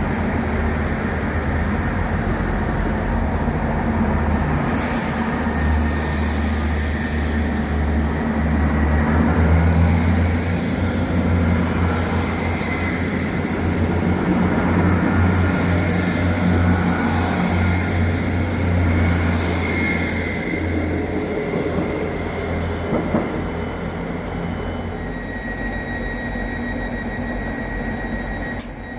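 A train running through the station: a continuous rumble of wheels on rail with a high, thin squeal over it for most of the stretch. Near the end a steady high tone starts.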